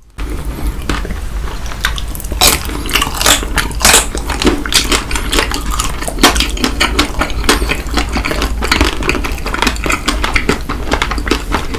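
Close-miked ASMR eating: chocolate bars being bitten and chewed, a dense, continuous run of crisp crunching and crackling clicks.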